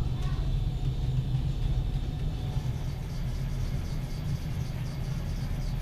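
A steady low mechanical rumble, with a faint rapid ticking of about five a second coming in about halfway through.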